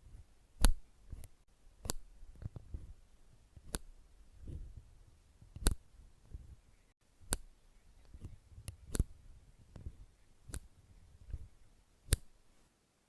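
Sharp clicks, about one every one and a half to two seconds, with softer taps and low thuds between them.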